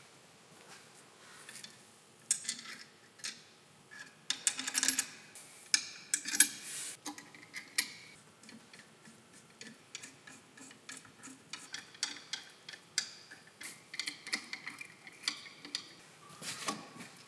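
Irregular light metallic clicks and taps of hand tools and small parts being handled, louder and busier in the middle and again near the end.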